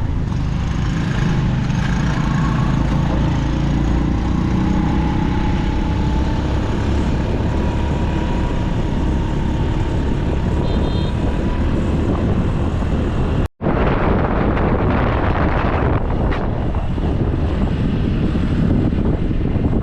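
Motorbike riding along: engine running steadily under rushing wind on the microphone, with a brief cut about two-thirds through.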